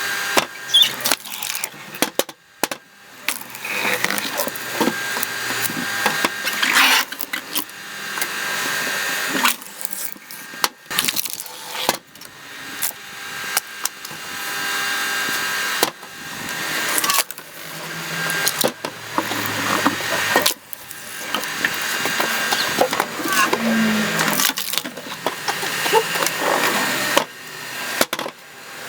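Motor-driven screw-cone log splitter boring into logs, the wood creaking and cracking apart under it. The noise swells and breaks off sharply again and again as pieces split off.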